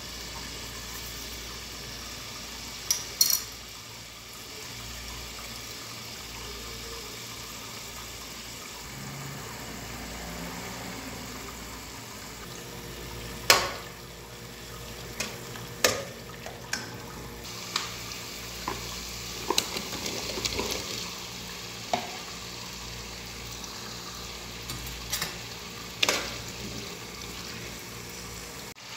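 Tomato masala frying in oil in a steel pot, with a steady low hiss. A metal spoon stirring and knocking against the pot gives scattered clinks, the loudest about a third of the way in and a run of them in the second half.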